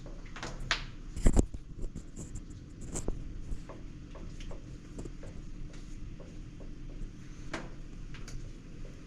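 Scattered knocks and clatters, the loudest a cluster about a second in, over a steady low hum.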